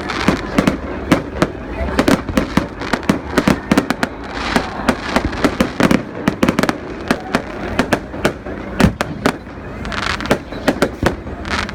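New Year fireworks display: a rapid, continual barrage of bangs and crackles from aerial fireworks, with people's voices underneath.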